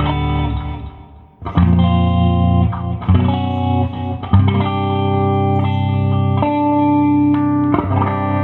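Electric guitar played clean through a Fender Bassman 200 amp, via a Mooer GE100 effects unit with compressor, delay and reverb. Sustained chords ring out and change every second or two; the sound dies away about a second in before the next chord is struck.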